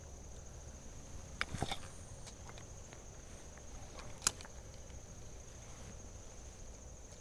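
Quiet creekside ambience: a steady high insect drone under a low haze, with a few faint clicks and one sharp click about four seconds in.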